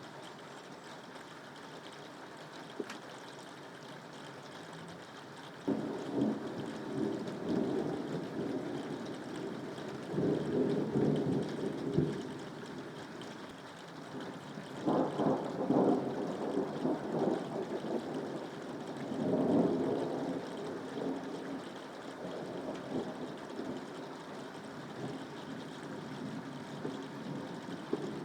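Steady rain, joined about six seconds in by rolling thunder that swells in several waves and then eases back under the rain.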